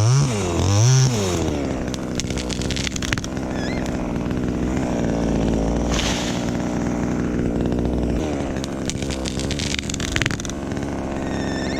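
Chainsaw engine blipped up and down in quick revs, then running steadily at high speed, with a few sharp clicks.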